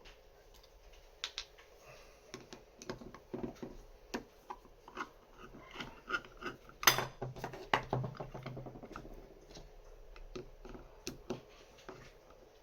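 Irregular small clicks and taps of a Lagard 2200 safe lock and hand tools being handled at the start of its disassembly, with one louder clack about seven seconds in.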